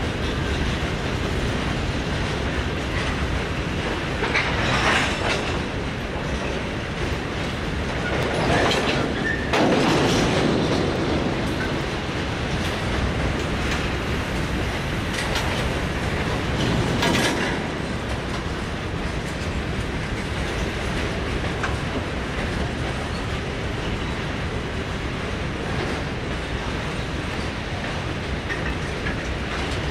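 Norfolk Southern freight train of boxcars and gondolas rolling steadily past, with three brief louder surges of rail noise along the way.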